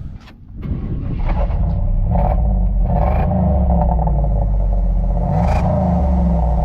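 Car engine and exhaust pulling hard under acceleration, building up over the first second and then running loud and steady, with a few sharp clicks at the very start.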